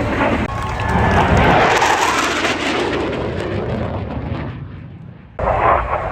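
Airplane passing by: a loud engine and air noise that swells and then fades away over several seconds, broken by abrupt edits about half a second in and about five seconds in.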